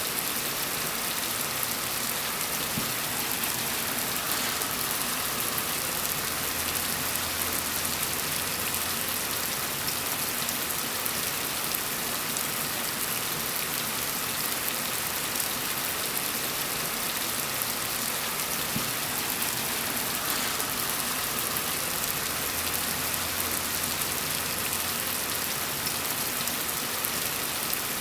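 Steady rain falling on a surface, an even dense patter.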